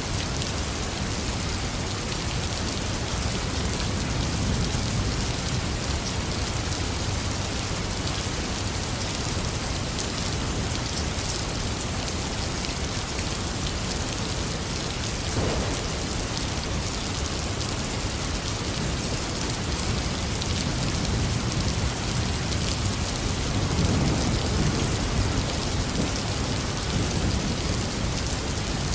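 Heavy rain falling steadily, with low rolls of thunder swelling and fading, the strongest about three-quarters of the way through.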